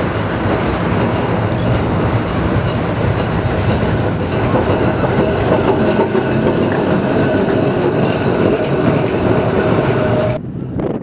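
Heritage tram running on street rails, a steady rumble of wheels on track with a faint steady whine mixed in, stronger in the second half; the sound cuts off abruptly near the end.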